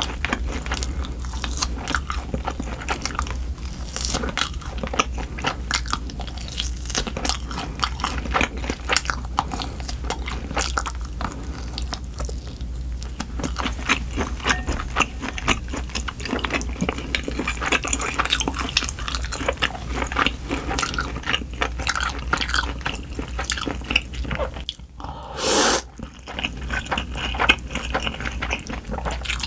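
Close-miked eating: chewing and biting of grilled oxtail, then spicy cold buckwheat noodles, heard as many small wet clicks over a steady low hum. Near the end comes a loud slurp of noodles lasting about a second.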